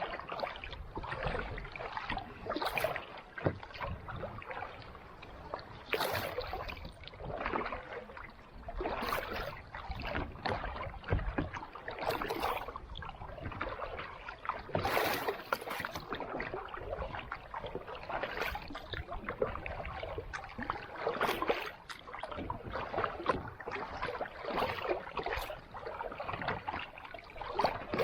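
Kayak paddle strokes in calm ocean water: a splashing dip of the blade about every three seconds, with water noise between the strokes.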